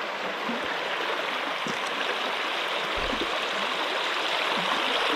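Flowing water of a mountain stream rushing steadily over rocks, a continuous even wash of sound.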